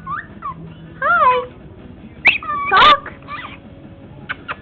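Pet bird making a string of noises: short whistle-like rising and falling chirps, sharp clicks, and a loud harsh squawk about three seconds in, then a quick run of clicks near the end.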